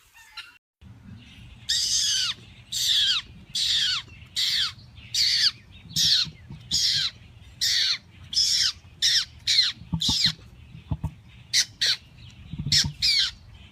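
A bird giving a long run of harsh, crow-like cawing calls, a little over one a second, each call falling in pitch. The calls begin about a second and a half in and come shorter and quicker near the end, over a faint low rumble.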